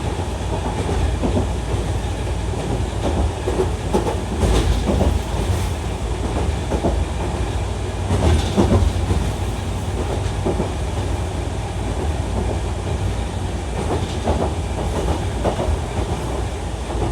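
Chikuho Electric Railway 3000-series articulated electric car running along the line: a steady low rumble with irregular clicks of the wheels over the rails.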